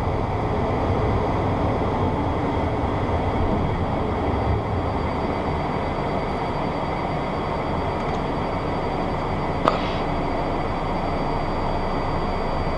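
Steady cockpit noise of a Beechcraft Premier 1 jet in its climb after takeoff: rushing airflow and its twin Williams FJ44 turbofans at climb power, with a faint steady high whine. A single click comes near the end.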